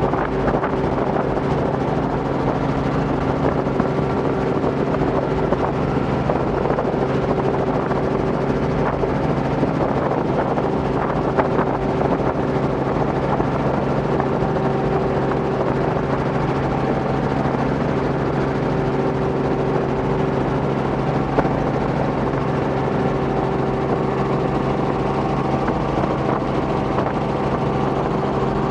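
Robinson R44 helicopter in flight: the steady drone of its rotors and six-cylinder Lycoming piston engine, a stack of level tones that holds constant.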